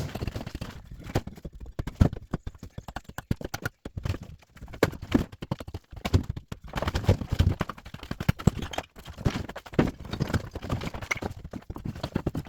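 Bricks being knocked out of an old wall and falling, a run of irregular knocks and clatters; the mortar between them is weak, so the bricks come loose and drop.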